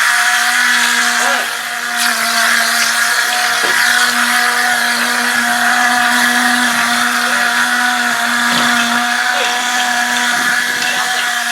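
A motor-driven machine running steadily with a constant hum and a few fixed tones, briefly dipping in loudness about a second and a half in.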